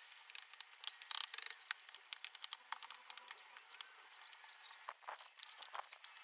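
Snow crunching and scraping: irregular crisp crackles, with a louder, denser scrape about a second in.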